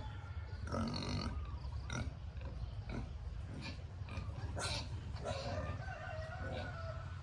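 Pigs calling, with one call about a second in and a longer one near the end, over a steady low rumble.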